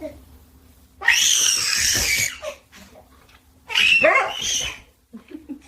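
A pet animal cries twice, each a high-pitched call of a second or so with a bending pitch: the first about a second in, the second about four seconds in.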